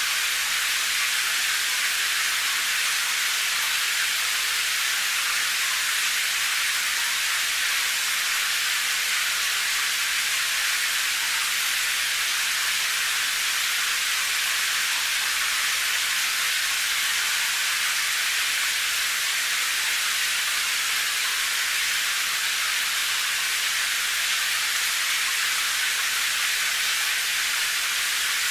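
Steady rain heard as an even hiss, bright and high with almost no low rumble, unchanging throughout.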